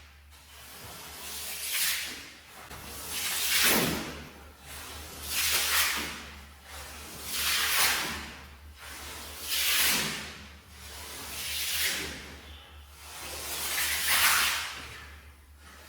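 Wet, mud-soaked shaggy rug being worked over in repeated hissing cleaning strokes, about one every two seconds, each swelling and then cutting off.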